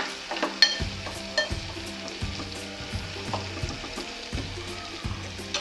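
Tomato-and-potato masala sizzling in oil in an aluminium pot on a high gas flame while a metal spoon stirs it, scraping and clinking against the pot again and again. The chilli powder is being fried to cook out its raw taste.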